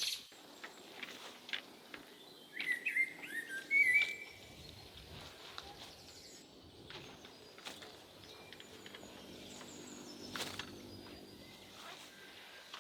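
Bird chirping: a quick run of short high calls about two and a half to four seconds in, then faint outdoor background with a few sharp clicks.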